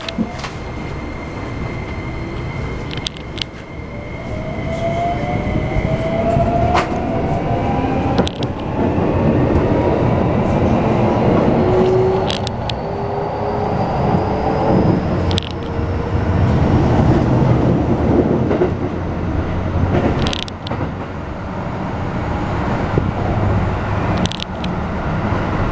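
Keikyu New 1000 series EMU heard from inside the car fitted with the Toyo hybrid SiC VVVF inverter while the train accelerates. The inverter and traction motors give a steady high tone at first, then whines that rise in pitch for about ten seconds. Underneath, wheels rumble and click over the rails.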